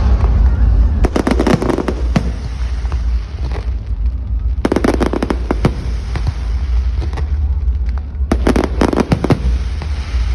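Firecrackers going off in rapid strings of sharp bangs, three bursts of crackling about four seconds apart, over a steady low rumble.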